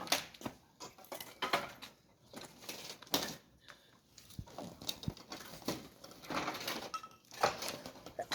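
Pieces of wood clattering and knocking as they are laid and stacked for a bonfire, in irregular short knocks.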